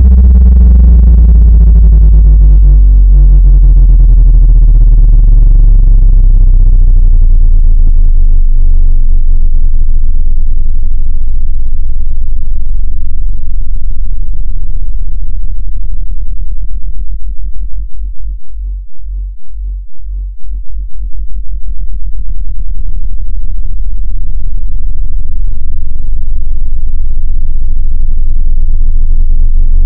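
Loud, low-pitched synthesized tone of the kind played through a speaker to vibrate water and dust out of it: a steady low drone with buzzy overtones. Around the middle it wobbles in quick pulses for a few seconds, then settles back to a steady drone.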